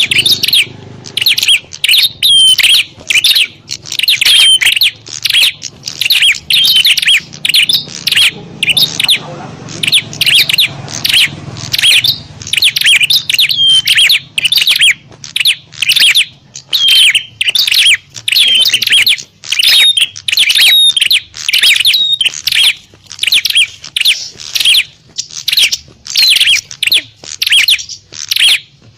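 Prinias (prenjak) giving excited, agitated fighting calls: a continuous run of loud, sharp chirps, about two a second. This is the kind of call used as a lure to draw wild prinias in.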